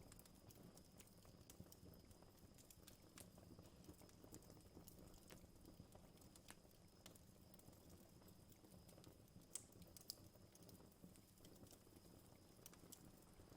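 Faint crackling campfire: irregular small pops and snaps, with two sharper pops about nine and a half and ten seconds in, over a faint steady high-pitched tone.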